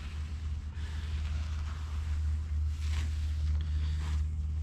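Steady low rumble like wind on the microphone, with a few faint, brief swishes of a microfiber applicator pad being rubbed.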